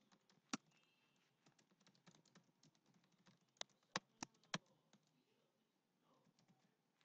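Faint, scattered computer keyboard key clicks over near silence: a single click about half a second in, then four more in quick succession near the middle.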